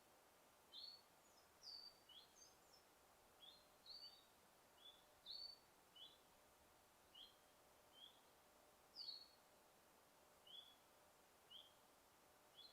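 Small birds chirping: short, quick high notes, some sliding down, repeated at an uneven pace of roughly one or two a second, a few louder and higher than the rest, over a faint steady hiss.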